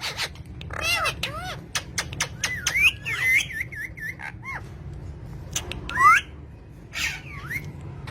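A bird calling with short squawks and whistles that rise and fall in pitch, the loudest a rising whistle about six seconds in, among many sharp clicks over a steady low hum.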